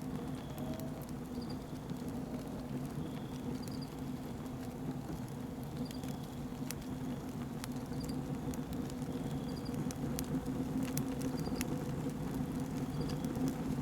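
Cardboard kindling crackling as it catches inside a rocket stove's burn chamber, with sharp scattered pops over a steady low hum.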